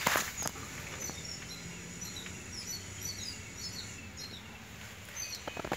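Small birds chirping in the background, many short high chirps a second over a steady low outdoor hum. A short knock right at the start and another about half a second in.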